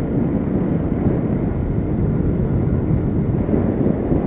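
Steady rumble of wind buffeting and road noise from a moving motorcycle, picked up by the rider's camera.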